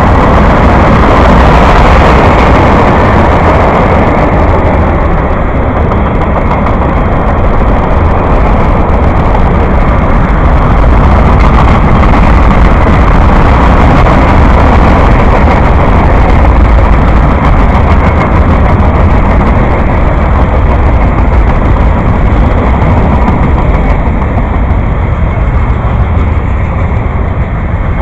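A train passing close by, its wheels and cars making a loud, steady rumble on the rails that eases slightly near the end.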